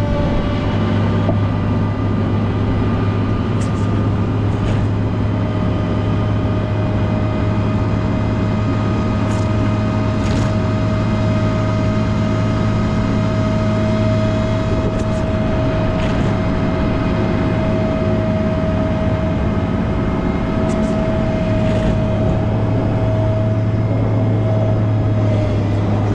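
Volvo L90H wheel loader's diesel engine running steadily under load, with a steady whine over it that stops shortly before the end.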